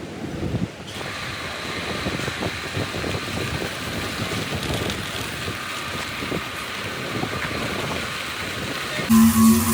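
A machine running steadily with a faint whine. Near the end it is abruptly replaced by a louder, steady pitched hum.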